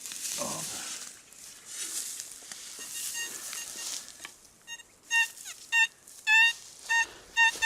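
Metal detector beeping in short, repeated tones as the coil is swept back and forth over a buried target, faint at first and then loud from about halfway through. Before the beeps, faint rustling.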